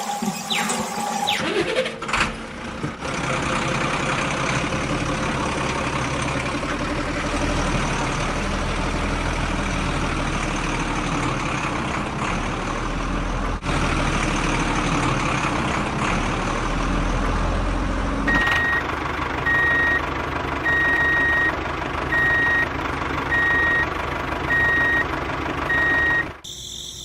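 A vehicle engine running steadily, joined about two-thirds of the way through by a reversing alarm beeping at a regular pace; the sound stops abruptly near the end.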